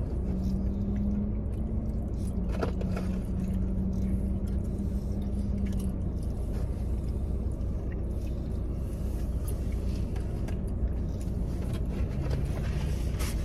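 Steady low rumble of a car's engine idling, heard from inside the cabin, with a steady hum over it for the first several seconds and again near the end. Faint scattered clicks and rustles of eating come through now and then.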